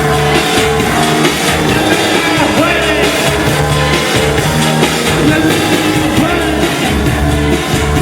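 Live electronic-rock band music played loud over a concert PA, with a steady bass line and a voice singing over it.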